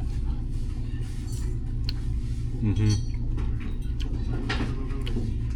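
Restaurant dining ambience: a steady low hum with brief voices and a few light clinks of cutlery against plates.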